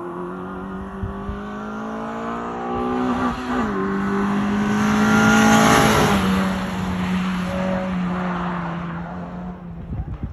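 Suzuki Swift Sport ZC31S's 1.6-litre four-cylinder engine through a Suzuki Sport aftermarket muffler, revving up under acceleration, dropping in pitch at a gear change a little over three seconds in, then pulling on. It grows louder to a peak about six seconds in, then fades.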